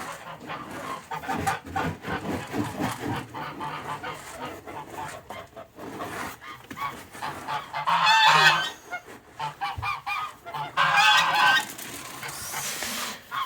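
Domestic geese honking: softer calls throughout, with two loud honks about eight and eleven seconds in.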